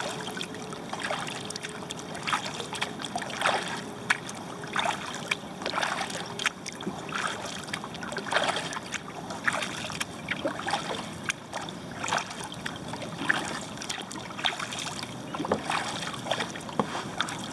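Kayak paddle strokes: the blades dipping and splashing in the lake about once a second, with water trickling off them between strokes.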